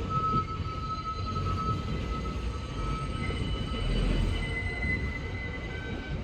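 New York City subway train running, with a low rumble and a high, steady wheel squeal whose pitch shifts upward about halfway through.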